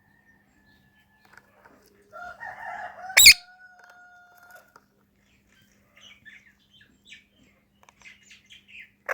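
Pet parrot vocalizing: a soft mumble, then one sharp, loud screech about three seconds in, followed by a held whistled note. Faint scattered chirps follow near the end.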